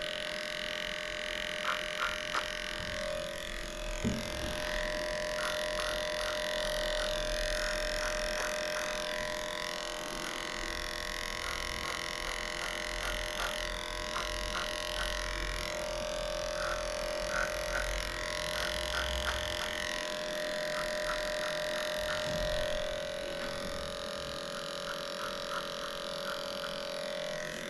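Electric dog grooming clippers running with a steady hum, with light clicks as the blade works through a matted coat.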